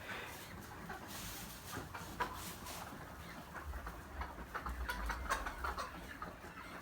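Young layer hens (pullets) in a pen clucking faintly, with scattered short clicks and scratches.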